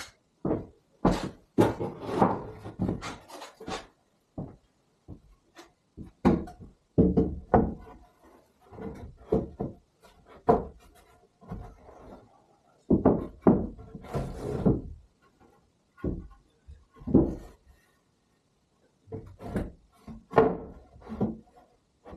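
A string of irregular knocks and thuds, some single and some in quick clusters, with short quiet gaps between them.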